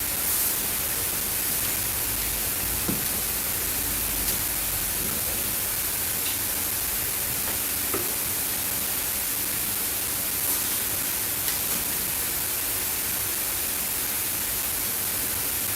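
Steady, even hiss with a few faint light clicks.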